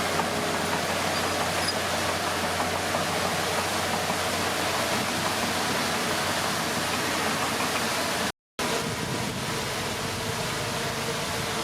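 Komatsu D31P bulldozer's diesel engine running steadily under a heavy hiss. The sound drops out completely for a split second about eight seconds in.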